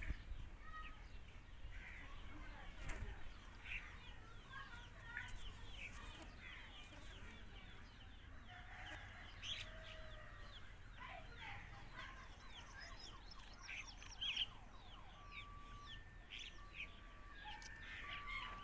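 Birds calling: many short, quick chirps and squawks overlapping throughout.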